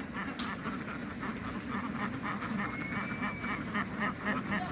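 A large flock of domestic ducks quacking all at once, a dense overlapping chorus that never lets up. A sharp click about half a second in, and a brief high whistle-like tone near the middle.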